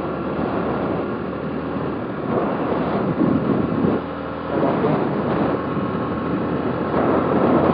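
Motorcycle engine running while riding on the road, its sound swelling and easing a few times.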